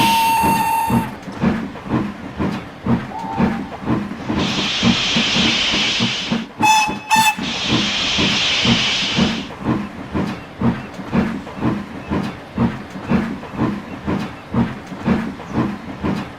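Steam locomotive chuffing steadily at about two beats a second, its whistle sounding at the start and stopping about a second in. A long hiss of steam runs from about four to nine seconds in, broken by two short whistle toots.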